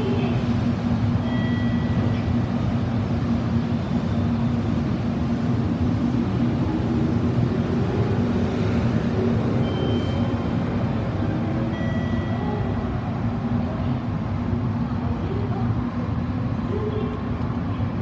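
JR Kyushu 787 series electric limited express train pulling out and running past the platform, a steady rumble with a constant low hum.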